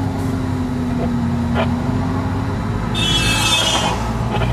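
Car interior noise while driving: a steady engine and road drone, with a brief high hiss lasting about a second, about three seconds in.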